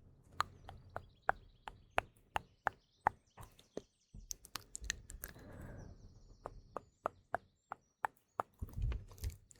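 Close-miked ASMR mouth sounds: rapid, irregular wet clicks and smacks of the lips and tongue. Faint birds chirp behind them.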